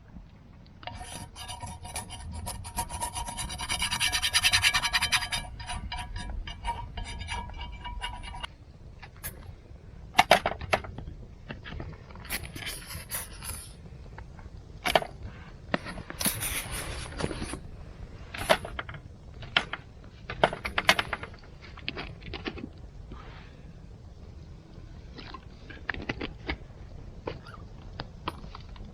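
Rapid, rhythmic scraping strokes for several seconds with a ringing tone, followed by scattered knocks and clicks.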